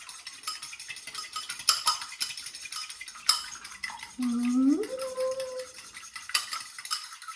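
An egg being whisked in a bowl: a utensil clicks rapidly and steadily against the bowl. A brief vocal sound rises in pitch about four seconds in and is held for about a second.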